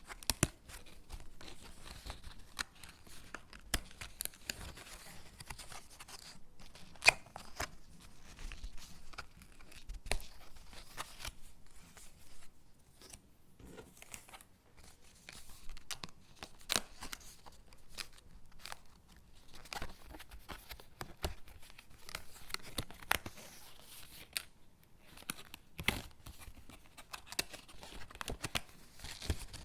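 Stickers being peeled from their backing sheet and pressed onto paper gingerbread cutouts: soft peeling and paper rustling, broken by irregular sharp little clicks and taps, the loudest about seven seconds in.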